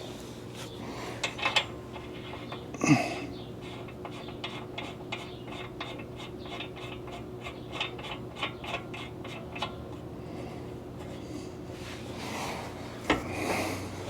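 Metal clinks and clicks of hand tools and steering parts being handled during a drag link install, with one louder metallic clank about three seconds in and a run of quick, evenly spaced clicks in the middle.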